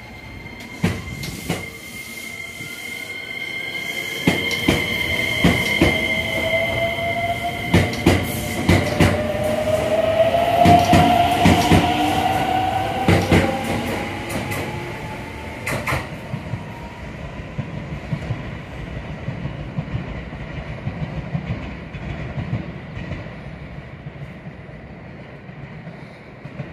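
Electric train pulling away and passing: a motor whine rising in pitch, a steady high wheel squeal, and wheels clacking over rail joints. It grows louder to a peak about halfway through, then the clacking stops and it fades away.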